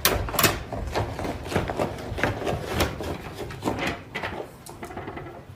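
Irregular knocks and clicks, several a second, getting quieter near the end.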